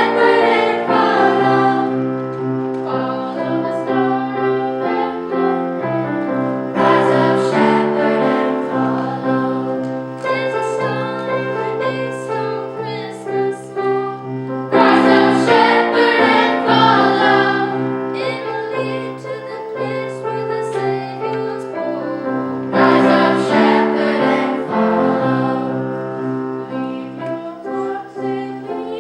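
Choir singing with piano accompaniment, in held phrases that swell louder about every eight seconds.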